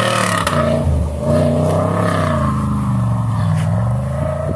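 Range Rover engine revving hard under load as it climbs a steep dirt bank; the pitch rises and falls with the throttle.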